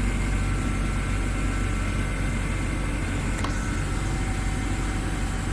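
BMW E90 325xi inline-six engine idling steadily after a faulty ignition coil was replaced; the misfire shake is gone, which the owner takes to mean the bad coil pack was the fault.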